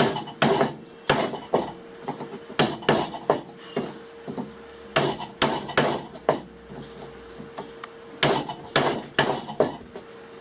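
Hand chisel being driven into hardwood with repeated hammer blows, chopping a mortise: sharp strikes in quick groups of two to four, with short pauses between groups.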